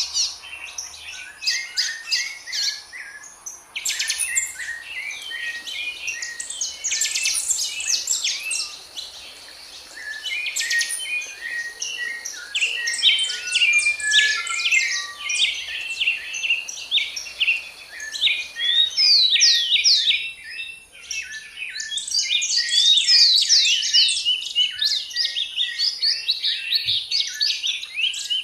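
Several songbirds singing and chirping at once, a dense chorus of quick high chirps and trills.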